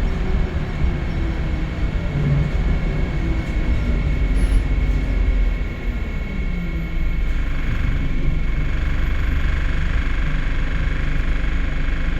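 Scania L94UB Wright Solar single-decker bus heard from inside while under way, its engine note falling steadily for about seven seconds as the bus slows, then running on at a steady level.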